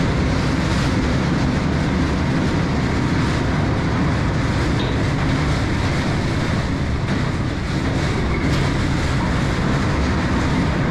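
Small amusement-park ride train running on its track, a steady loud rumble and rattle of wheels and cars.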